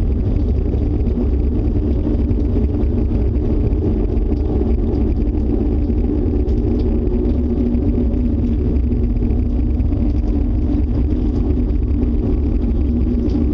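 Loud, steady deep rumble from an unseen source, an unexplained noise that residents likened to a tornado or a jet engine. It holds without pauses or change.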